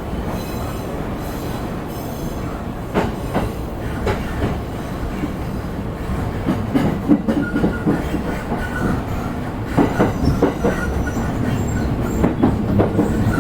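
Electric commuter train heard from inside a car, wheels rolling with a steady low rumble. Scattered sharp clacks come as the wheels run over rail joints and points, with a faint wheel squeal.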